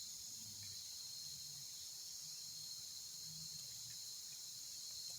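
Insects trilling in a steady, high-pitched chorus, unbroken and faint.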